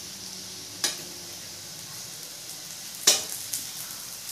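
Pea kababs sizzling steadily as they shallow-fry in oil in a frying pan. Two sharp clicks of a fork against the pan come as the patties are turned, a small one near the start and a louder one about three seconds in.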